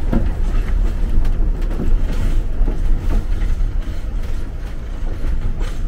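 Steam railway carriage running along the track: a steady low rumble from the wheels and running gear, heard from inside the carriage.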